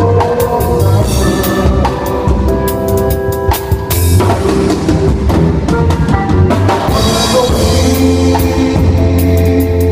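Live worship band playing an instrumental passage during a soundcheck: a drum kit beating steadily over sustained low bass notes and held chords.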